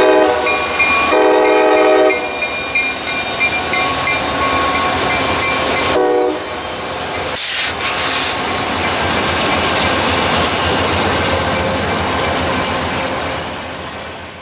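Diesel freight locomotive's horn: two blasts back to back at the start, then a short blast about six seconds in. After that comes the steady rolling clatter of the freight cars passing, which fades out at the end.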